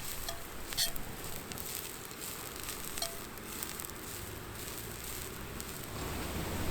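Food sizzling and frying in a stainless steel Dutch oven over a wood fire, a steady hiss broken by a few sharp crackles.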